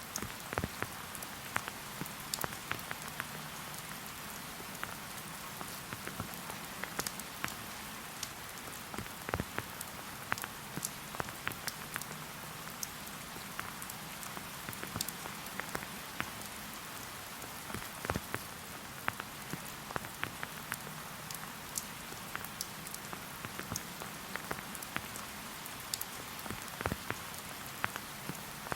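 Steady rain falling in a forest, a soft hiss with many separate drops ticking close by.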